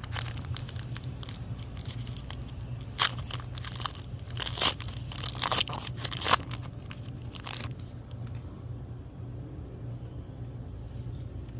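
Foil booster-pack wrapper of Pokémon trading cards being torn open and crinkled, in irregular sharp crackles, loudest from about three to eight seconds in, then softer rustling. A steady low hum runs underneath.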